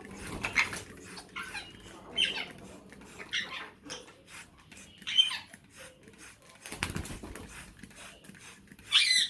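African grey parrots calling in short squawks and whistles, about six calls spread out, the loudest near the end.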